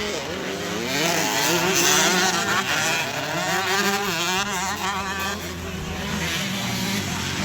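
Racing motorcycle engines revving, several at once, their pitch repeatedly rising and falling.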